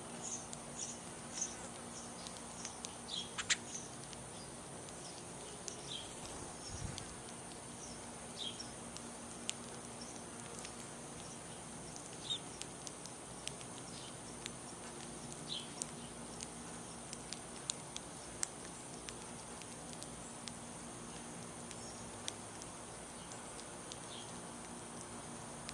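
Small birds giving short chirps, a quick run at first and then single chirps every few seconds, over a steady high-pitched insect drone, with scattered light clicks.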